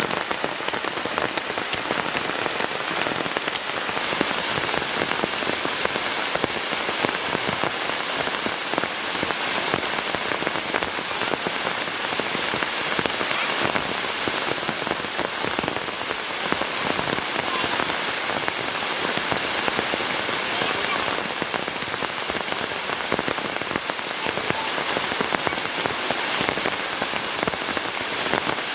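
Heavy, steady rain pattering on a surface, a dense hiss of many drops.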